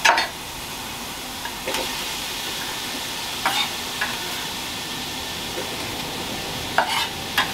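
Oil, garlic and diced carrot sizzling steadily in the Ninja Foodi multi-cooker's pot. A few short sharp knocks of a knife on a wooden chopping board are heard over it.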